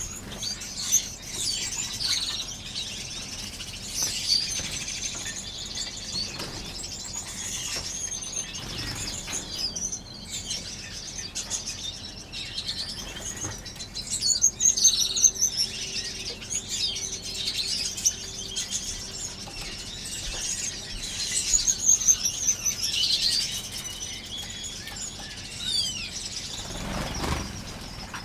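A flock of small aviary finches chirping and calling over one another, with many short, high chirps and trills overlapping. A soft, low thud or rustle comes near the end.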